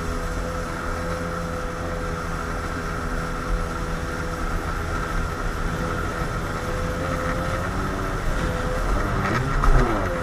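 Kawasaki JS300 stand-up jet ski's two-stroke engine running at steady throttle. About nine seconds in its pitch dips and rises again as the throttle changes, with a brief bump at the loudest moment.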